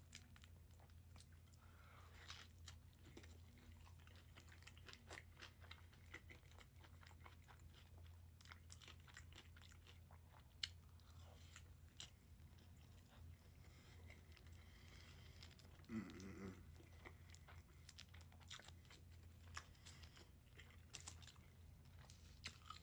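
Faint close-up eating sounds: chewing and crunching, heard as many small scattered clicks and crackles over a low steady hum.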